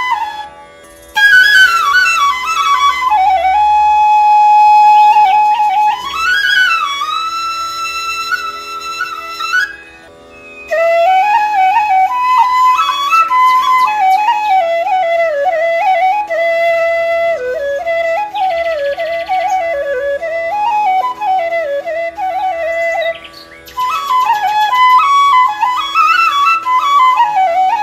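Background flute music: a single flute melody weaving up and down over a steady low drone, with short pauses between phrases.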